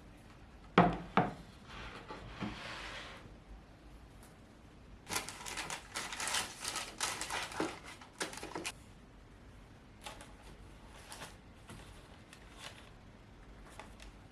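Household objects being handled: two sharp knocks about a second in, a short hiss, then a few seconds of clattering and rustling, and a few faint taps near the end.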